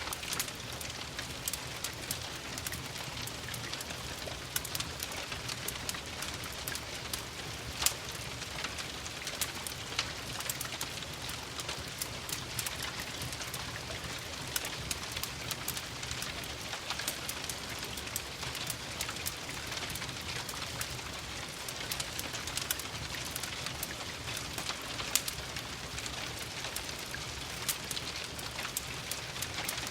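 Steady rain falling, mixed with a crackling wood fire. Many small sharp pops and clicks run through it, with a louder crack about 8 seconds in and another around 25 seconds.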